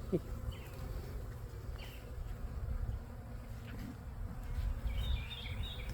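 Honey bees buzzing around an open hive as their nuc frames are handled, a steady low hum.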